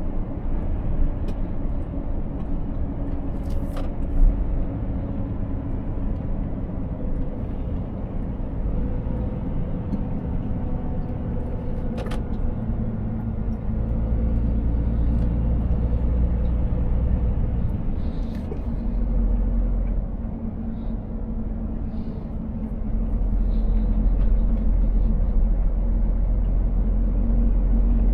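Scania 500S truck's diesel engine running steadily under way, with a heavy low road rumble that swells twice. A single sharp click about halfway through.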